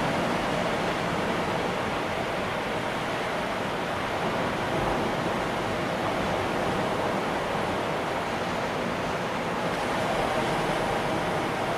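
Ocean surf: a continuous rush of breaking waves that swells and eases slightly in level.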